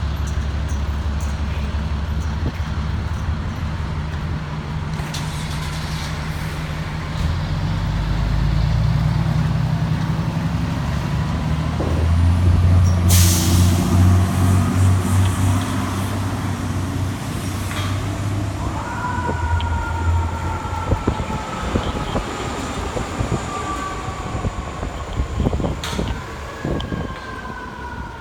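Fire truck's diesel engine running and revving up as the rig pulls out, with a sharp hiss of air brakes about halfway in. In the second half a siren sounds, its pitch falling slowly, and another siren tone starts near the end.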